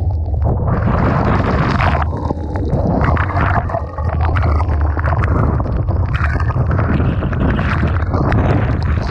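Typhoon-force wind buffeting the microphone with a heavy low rumble, over the rushing of storm-surge waves breaking and washing ashore. The rush swells about half a second in and keeps surging, with a brief lull near the middle.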